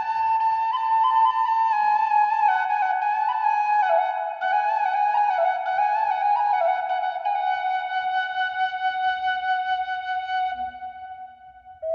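Bansi, the Minangkabau bamboo flute, playing a slow solo melody in small ornamented steps. It settles on a long held note that fades away near the end.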